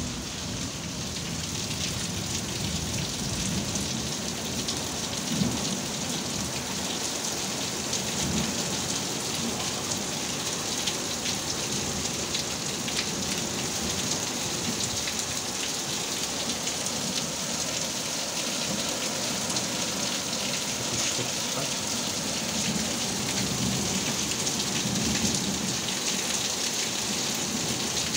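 Heavy rain falling steadily in a thunderstorm, with a few low rumbles of thunder now and then.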